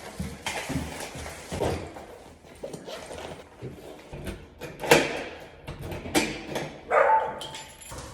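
Clicks and knocks of a bicycle being handled through a building's door, with a brief sound holding a single tone about seven seconds in.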